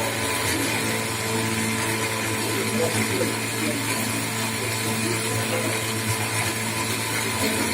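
CNC machine tool running through its program, a steady motor hum and whine with machining noise, unchanging in level.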